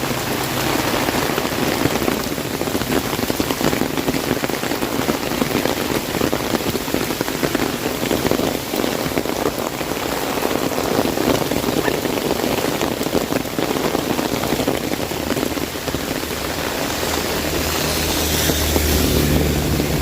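Heavy rain drumming on an umbrella, a dense, steady patter of drops striking the canopy. Near the end a low rumble of thunder begins to build.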